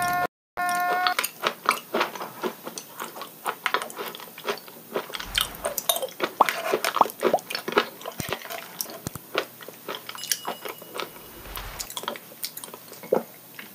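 Close-miked mukbang eating sounds: a person biting and chewing dark-red cubes of food, with many irregular wet mouth clicks and smacks. It opens with the end of a man's wailing cry, which cuts off about half a second in.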